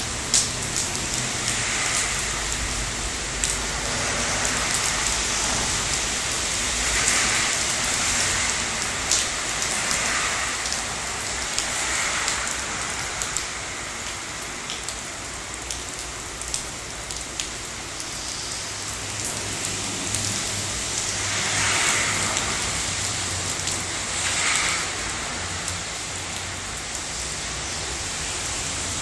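Steady rain falling, with many sharp drop hits close by over the even hiss of the downpour.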